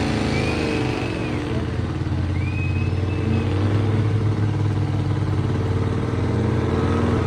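A vehicle's engine held at high revs during a burnout, running loud and steady. Two short high-pitched squeals sound over it in the first few seconds.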